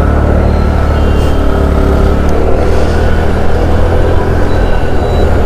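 Motorcycle engine running steadily, with road and traffic noise around it.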